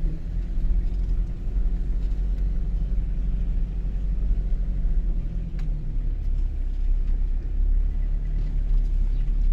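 Toyota HiLux engine running steadily under load as the ute pushes through a deep water or mud crossing, a low continuous rumble. A single faint tick about halfway through.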